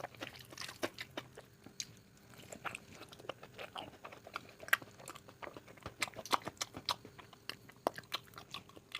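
Close-miked eating sounds of mutton fat curry: wet chewing and lip smacks in an irregular run of sharp clicks, with a louder smack a little before the five-second mark.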